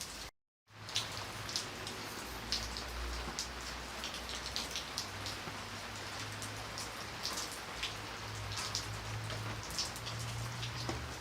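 Rain falling steadily, with many separate drops ticking sharply on a hard surface over a constant hiss. The sound cuts out completely for about half a second just after the start, then resumes.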